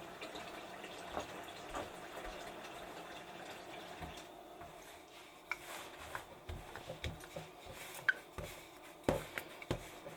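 Water running from a tap for the first few seconds, then stopping, followed by scattered small knocks and clinks.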